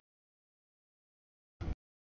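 Dead silence broken once, about one and a half seconds in, by a short burst of deep noise: a clipped fragment of a passing freight train's sound, with the audio dropping out before and after it.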